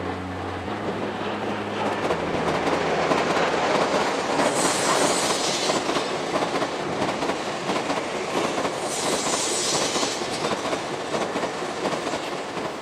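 Tokaido Shinkansen train running past at speed, sped up to triple speed, a dense rumble of wheels on rail. It swells over the first few seconds and carries two brief high hisses, about five and nine seconds in.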